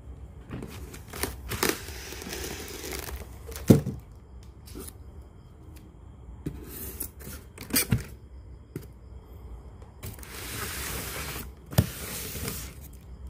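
Handling noise: rustling and scraping in three stretches, with several sharp clicks and knocks, the loudest a little under four seconds in.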